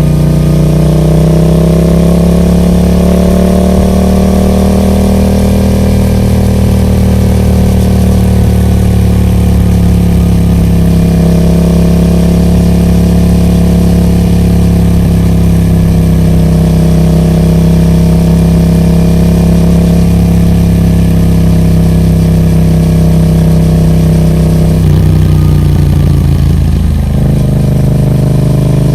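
Yamaha MT-07's parallel-twin engine running through a Roadsitalia Special Carbon aftermarket exhaust. The note rises over the first few seconds and then holds steady, with a brief dip and change in pitch about 25 seconds in.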